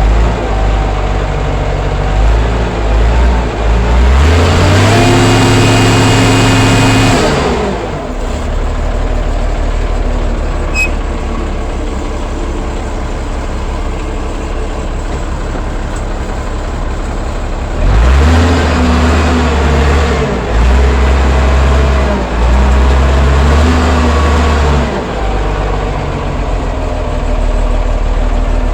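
Allis-Chalmers 940 wheel loader's diesel engine running while still cold, which the operator calls cold-blooded. It revs up and back down once about four seconds in, then surges repeatedly under throttle from about eighteen to twenty-five seconds, with a steadier lower running sound between.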